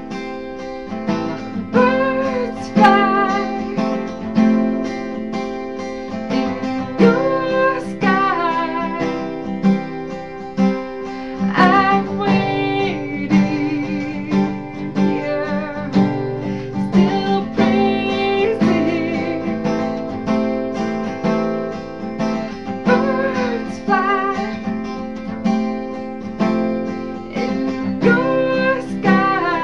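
Acoustic guitar strummed and picked, accompanying a voice singing a slow worship song, the held notes wavering with vibrato.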